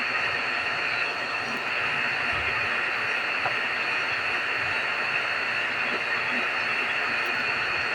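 Refrigeration vacuum pump running steadily while evacuating the mini-split's refrigerant lines: a constant hiss with a faint, steady high whine.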